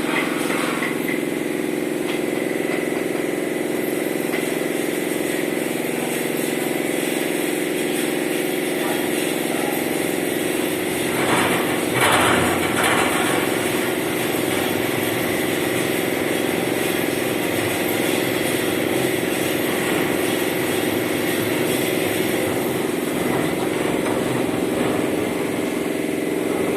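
A motor or engine running at a steady hum, with a brief louder clatter about eleven seconds in.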